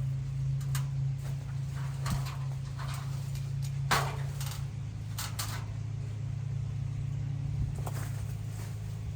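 An engine running steadily with a low hum, broken by several sharp cracks and rustles, the loudest about four seconds in.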